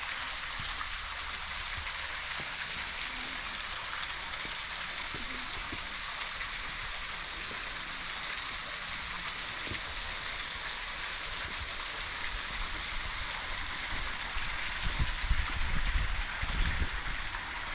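Steady rush of flowing creek water. A few low thumps and rumbles come near the end.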